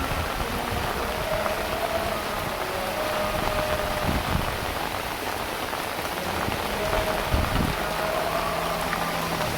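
Heavy rain falling steadily on surfaces.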